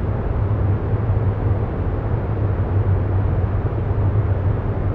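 Steady, low background noise bed with no distinct events, strongest in the deep low end.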